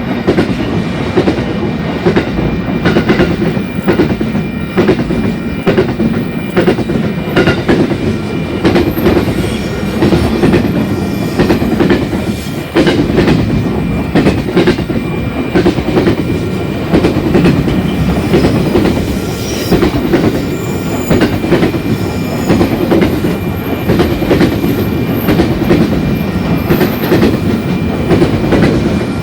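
A loud freight train's wagons rolling past, a steady rumble with wheels clicking repeatedly over the rail joints.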